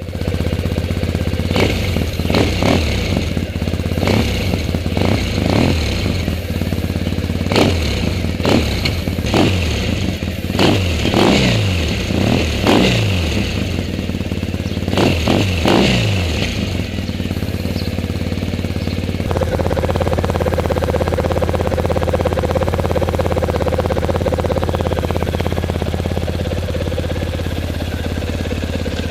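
Triumph Bonneville T100 parallel-twin engine breathing through aftermarket TOR silencers, blipped repeatedly with short rising-and-falling revs, then settling into a steady idle for roughly the last ten seconds.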